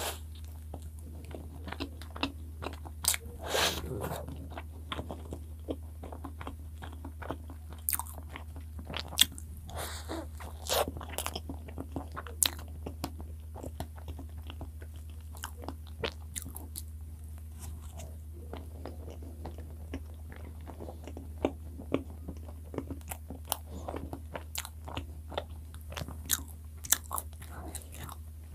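Close-miked biting and chewing of soft cream-filled bread, with many irregular wet mouth clicks and smacks. A steady low hum runs underneath.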